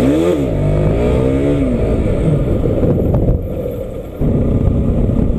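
Motorcycle engine revving, its pitch rising and falling in two quick blips, then running on steadily. The loudness dips briefly and jumps up again suddenly about four seconds in.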